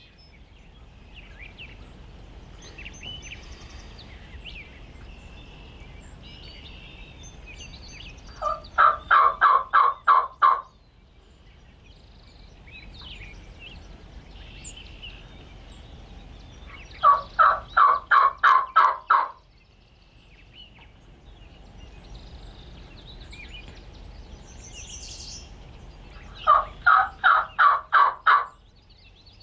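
Turkey yelping: three runs of about eight evenly spaced yelps, each lasting about two seconds, coming roughly every eight or nine seconds, with faint songbird chirps in the gaps.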